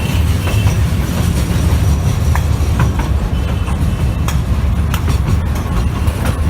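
Gwalior Light Railway narrow-gauge train running along the track: a steady low rumble, with irregular clicks and knocks of the wheels over the rails.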